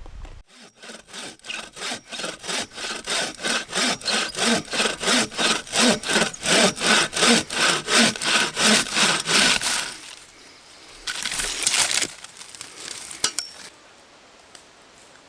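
Hand saw cutting through wood in quick, even back-and-forth strokes, about three a second, growing louder, for roughly nine seconds. The strokes stop, and a shorter scraping noise follows about a second later.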